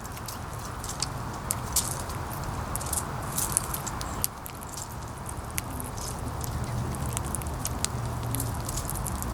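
Wind buffeting the microphone with a steady rustling hiss, while irregular sharp clicks and crackles of squirrels and birds picking at and cracking seeds come a few times a second.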